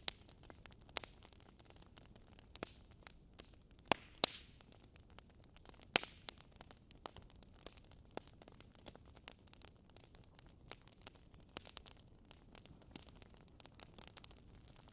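Wood fire crackling in a fireplace: irregular sharp pops and snaps over a soft steady hiss, with a few louder pops around four and six seconds in.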